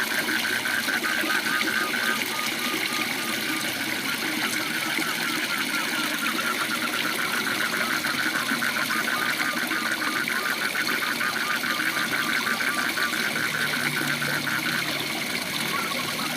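A waterfall rushing steadily, with frogs calling over it in rapid, evenly pulsed trills that overlap in a chorus.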